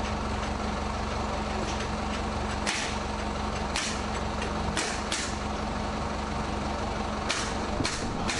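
A steady low machine hum, like an engine running, with about six short, sharp bursts of hissing noise at irregular intervals from about a third of the way in.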